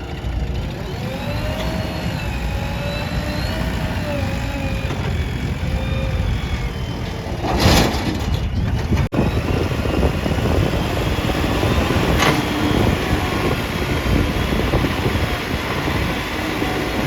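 Heavy diesel machinery running steadily, as a backhoe loader works beside tractors. A wavering whine rises and falls over the rumble in the first half. A loud rushing burst comes about eight seconds in, and a shorter one around twelve seconds.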